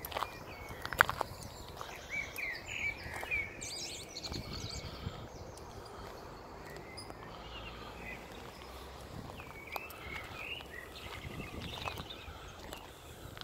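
Songbirds chirping in short repeated phrases, in two spells, over low outdoor rustling, with one sharp click about a second in.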